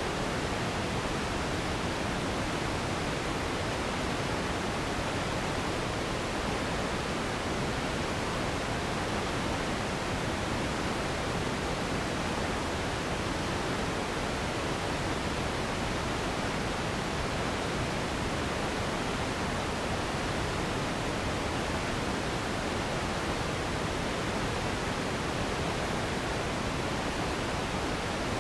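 Steady sleep noise: an even, unchanging rushing hiss, fuller in the low and middle range than in the highs.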